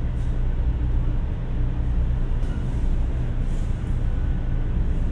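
Steady low rumble and hum of a 500 Series Shinkansen running, heard from inside the car.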